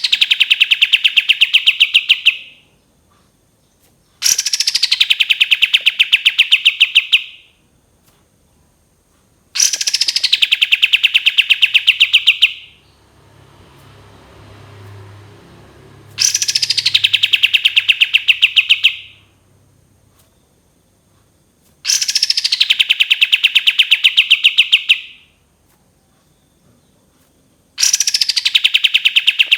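Kapas tembak bird singing its long 'tembakan' phrase again and again. Each phrase is a high falling sweep that runs straight into a fast, even string of high notes lasting about three seconds, repeated every five to six seconds.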